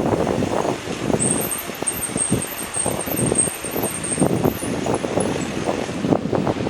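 Bicycle rolling over a rough, unpaved track: the tyres crunching and the bike rattling over bumps, with wind buffeting the microphone. A faint high-pitched pulsing chirp sounds from about a second in until near the end.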